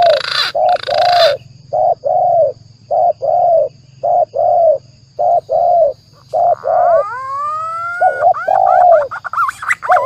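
Spotted dove (tekukur) cooing over and over in short, arched, low notes grouped in twos and threes, played as a bird-lure call. About two-thirds of the way through, a green pigeon (punai) gives a long rising whistle. There is a noisy hiss over the first second or so.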